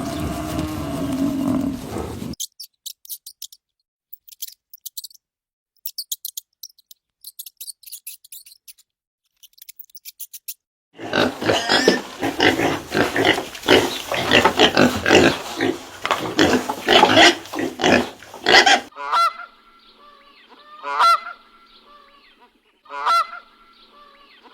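A cow's low moo ends about two seconds in, followed by several seconds of faint scattered high ticks. Then a flock of geese honks loudly all together, thinning near the end to single honks about two seconds apart.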